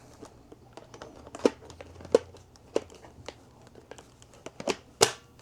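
Hard plastic clicks and knocks as the dirt bin of a Riccar R70 cordless vacuum is handled and fitted back onto the unit: about half a dozen separate sharp clicks, one near the end among the loudest.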